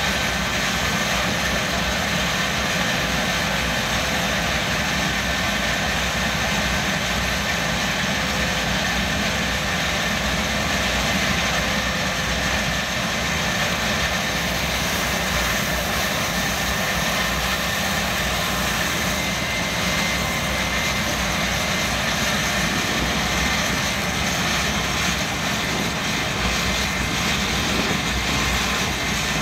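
R11F-300 turbojet engine from a MiG-21 running steadily, a dense rushing noise with a few thin high whining tones held throughout.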